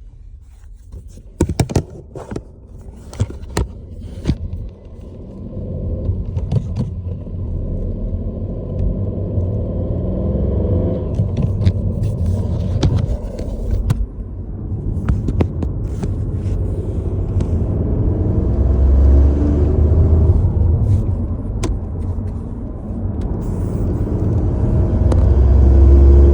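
Ford Focus Mk4 driving under load: a low rumble that builds in loudness, with pitched lines shifting as the car pulls. This is the strange noise under load that its owner is trying to identify. A few sharp clicks come in the first few seconds.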